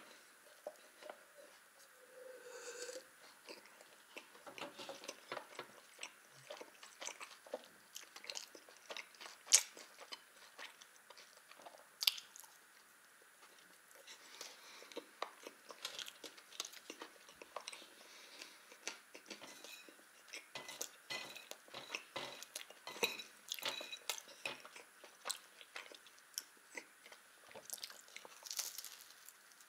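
Close-miked chewing and biting of a soft baked pastry: wet mouth sounds and many small clicks. A few sharp, louder clicks stand out, near the start and about ten and twelve seconds in.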